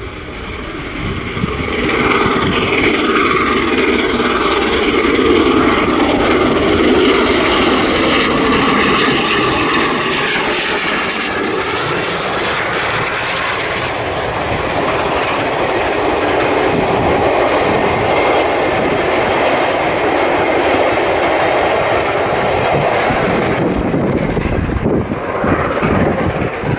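The steam locomotive Tornado, a three-cylinder LNER Peppercorn A1 Pacific, running past with its train, a loud rail roar and the rolling of carriages going by. The noise builds over the first two seconds, holds steady, then falls away sharply near the end.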